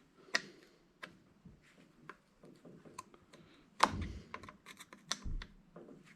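Irregular small clicks, taps and knocks of metal parts and hand tools being handled on a workbench while an angle grinder is taken apart, with a heavier knock a little under four seconds in and another about five seconds in.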